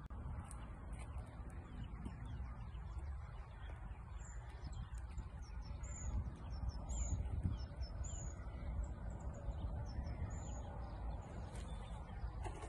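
Small birds chirping, with short high notes about once a second through the middle of the stretch, over a steady low rumble.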